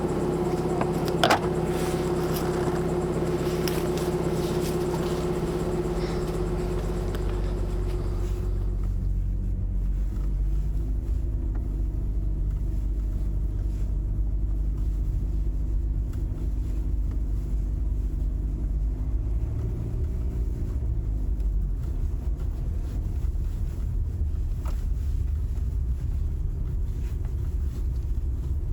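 Car engine and road rumble, a steady low drone. A higher hiss and hum stop about eight seconds in, leaving only the low rumble.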